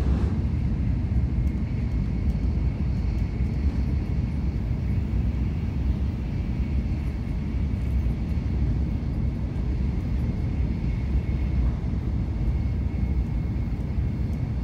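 Steady low rumble of an N700S Shinkansen travelling at speed, heard inside the passenger cabin, with a faint steady high whine over it.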